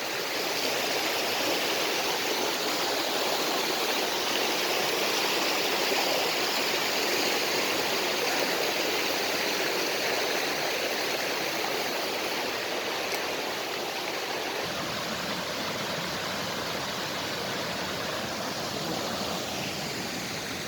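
Mountain creek water rushing steadily, a continuous wash that eases off slightly in the second half.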